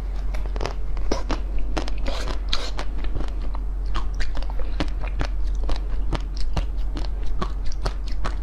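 Close-miked chewing and biting of a firm, orange-coated mango-shaped treat: a steady run of crisp crunching clicks, several a second, over a low steady hum.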